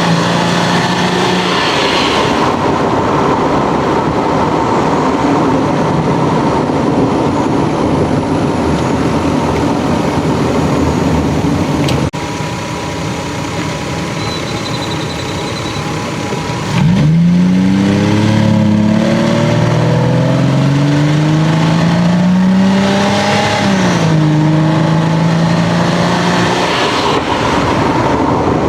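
Stock Lexus GS300's straight-six engine and exhaust under way: a steady drone for the first half, then, after a click about halfway through, the engine note climbs in pitch as it accelerates and drops sharply at an upshift, settling into a steady pull for the last few seconds.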